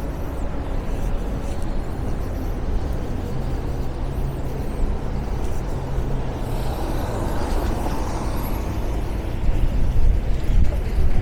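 Road traffic on a wide city avenue: a steady low rumble of engines with tyre noise, one vehicle swelling past about two-thirds of the way through, and a heavier rumble near the end.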